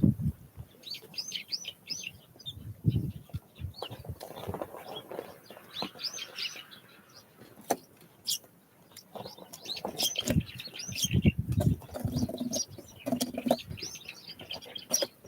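Small wild birds chirping at a feeder in quick runs of high notes, coming in several bouts, with soft low thumps and wing flutters among them.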